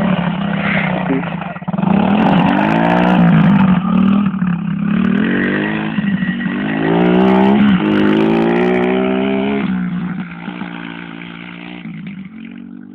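110cc pit bike's single-cylinder four-stroke engine running and being revved several times, its pitch rising and falling with each blip. It then drops back to idle and fades over the last few seconds.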